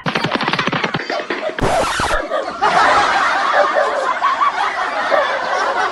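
People laughing, with a short burst of noise about two seconds in.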